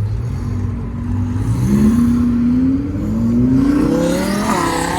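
A performance car pulling away hard from idle, its engine revs climbing in steps with brief drops between them, like upshifts. It then passes close by with a swooping rise and fall in pitch near the end.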